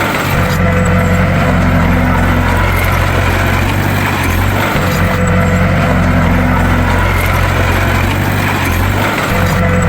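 Bulldozer's diesel engine running steadily under load, a deep continuous drone with a pattern that repeats about every four and a half seconds.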